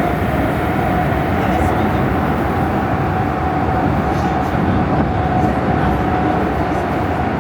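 Prague metro train running steadily through the tunnel, heard from on board: an even rumble and rush of wheels on rail with a steady whine over it.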